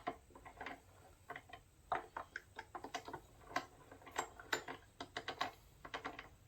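Irregular metallic clicks and ticks, several a second, from the gears and shafts of a Peerless 206 transaxle being turned and shifted by hand while it is checked for neutral.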